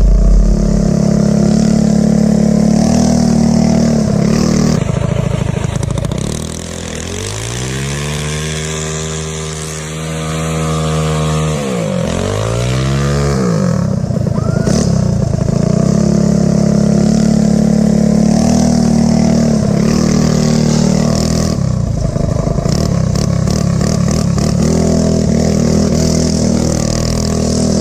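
Motorcycle engine running at speed. Its note drops and eases off about seven seconds in, slides up and down in pitch for several seconds, then settles back to a steady run.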